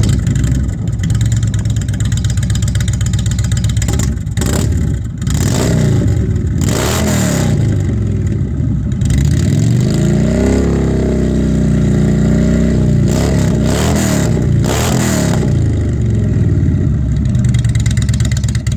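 Indian Thunder Stroke 111 V-twin on a 2016 Chieftain Dark Horse idling through Toxic Pipes Outlaw slip-on mufflers with the baffles removed (stock head pipes and catalytic converters still in place), blipped several times and given one longer rev about ten seconds in.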